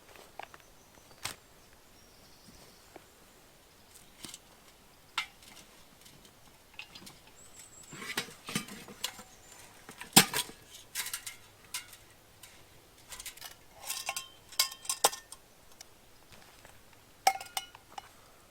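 Metal camping gear being handled: scattered clinks and knocks of pots and utensils, some ringing briefly, bunched together in the middle and latter part.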